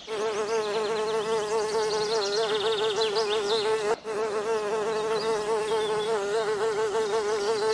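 A flying insect buzzing: one steady droning buzz that wavers slightly in pitch. It cuts out for a moment about halfway through, then carries on.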